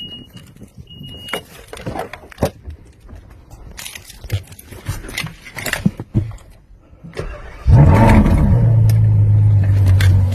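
Scattered clicks and two short high beeps, then about eight seconds in a supercar engine cranks and fires on a cold start. It flares up loudly and settles into a steady high idle.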